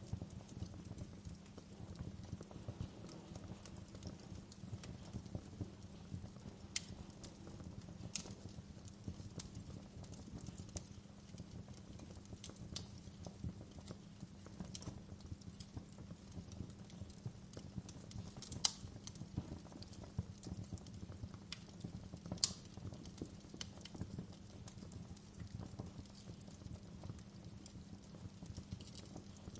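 A fire crackling steadily over a low rumble, with dense small clicks and a few louder sharp pops.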